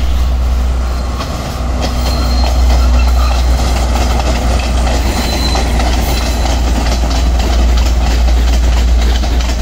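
Passenger train running past, a loud steady rumble with the noise of the carriages on the track.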